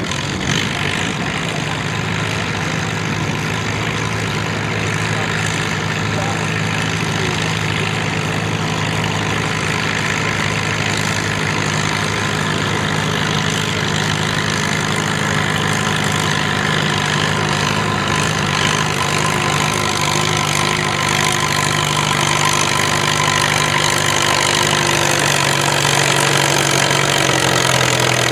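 Vintage farm tractor engine running hard at a steady speed through a long stretch, slowly growing louder, with its pitch dropping right at the end.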